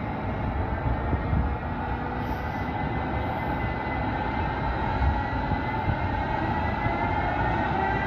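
Train running on the track with a steady rumble and a whine that rises slowly in pitch as it gathers speed.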